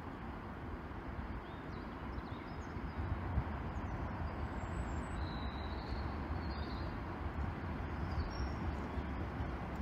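Class 333 electric multiple unit running in along the platform at low speed: a steady low rumble of wheels on rail that grows louder about three seconds in as the train comes closer.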